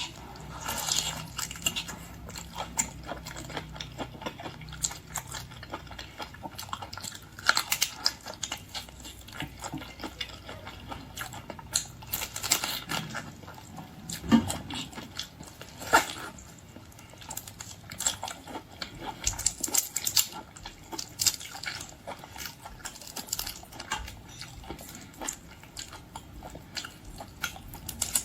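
Close-up eating sounds: wet chewing and smacking with many sharp clicks and crackles as raw marinated shrimp are bitten and worked apart.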